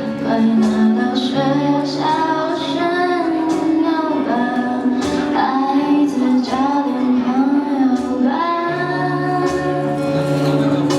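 Live band performance: a female lead vocalist sings a melody over guitar chords and a drum kit keeping the beat.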